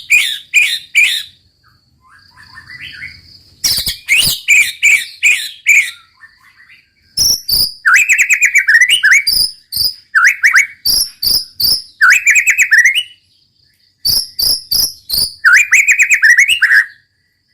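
White-rumped shama singing loud phrases of rapid, repeated sharp notes (the 'tembak' volleys prized in murai batu), with short pauses between phrases. A steady, high, insect-like trill runs in the gaps.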